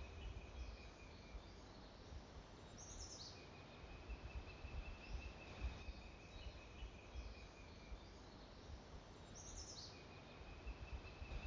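Faint outdoor ambience with birds calling. A long, even, high trill recurs about three times, and short high falling notes come twice, over a low rumble.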